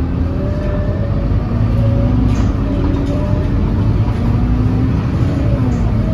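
Scania K-series city bus's diesel engine running under way, a loud low rumble whose pitch slowly rises and falls with engine speed.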